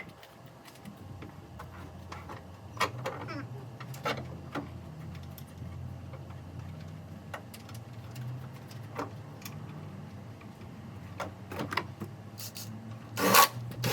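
Scattered sharp clicks and taps, like tools on metal, over a low steady hum, with a loud short clatter near the end.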